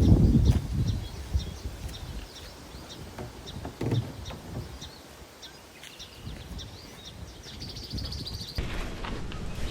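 Small songbirds chirping repeatedly. A low rumble is loud at the start and fades after about a second, and a short high trill comes near the end.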